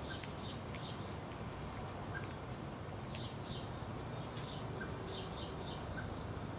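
Kittens eating, with short crisp crunching and chewing sounds that come in quick pairs at uneven intervals over a steady low background rumble.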